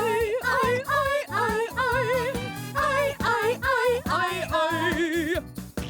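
Cartoon character voices singing a quick run of short, held notes with heavy vibrato over an upbeat children's pop backing track.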